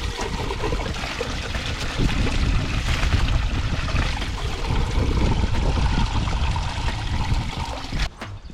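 Running water from a stream, a loud steady rush that cuts off sharply near the end.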